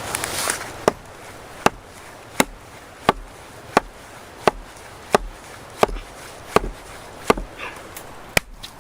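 Wood being chopped by hand: about eleven sharp, evenly spaced blows, a little under a second apart.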